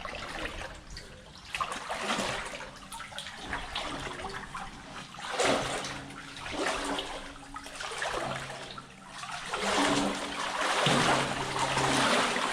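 Knee-deep water sloshing and splashing as a person wades and sweeps a net through it to catch minnows, swelling several times.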